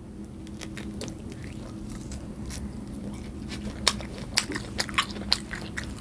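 A person chewing food close to the microphone, with scattered sharp mouth clicks that come more often in the second half, over a faint steady hum.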